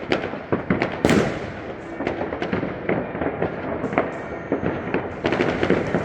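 Fireworks going off all around: a dense run of bangs and firecracker crackle, with a large bang about a second in.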